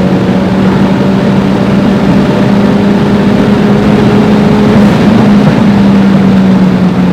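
Tuned Ford Focus RS's turbocharged 2.3-litre four-cylinder and aftermarket exhaust droning steadily inside the cabin while cruising. The engine note holds nearly constant pitch, rises slightly about five seconds in, then drops a little near the end, over tyre and road noise.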